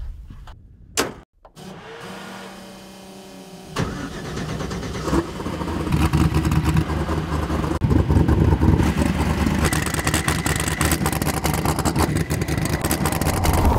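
Funco F9 sand car's engine being started: after a click, the starter cranks for about two seconds, then the engine catches about four seconds in and runs rough and loud with revving, getting louder over the following seconds.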